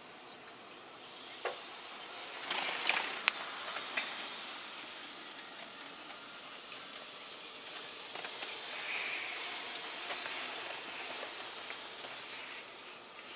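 Automatic car wash water jets spraying steadily against the car, heard from inside the cabin, with a few sharp knocks about three seconds in.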